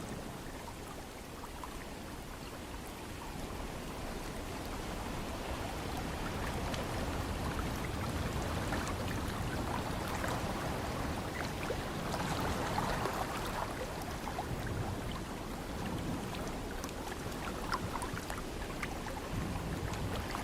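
Ocean waves washing in a steady rush, swelling over several seconds to a peak about halfway through and then easing, with small crackling splashes scattered through it.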